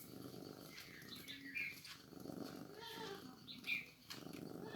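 A cat purring steadily, with two short high-pitched mews, about one and a half and three and a half seconds in.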